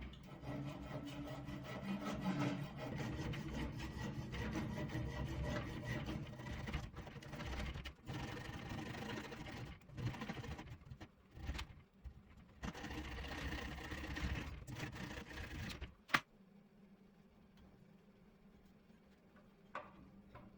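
A tool working a new wooden hammer handle, with a continuous rasping, rubbing noise broken by a few short pauses. It stops about sixteen seconds in with a sharp click, and after that only faint room noise is left.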